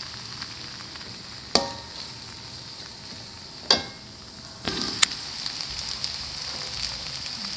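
Meatballs frying in hot oil in a pan, a steady sizzle that grows louder about two-thirds of the way in. Two sharp knocks with a short ring, typical of a spatula striking the pan, come about a second and a half in and again about two seconds later.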